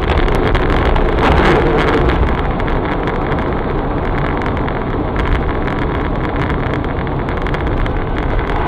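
Steady running noise of a moving car: engine and road rumble with wind, and many small clicks or rattles on top.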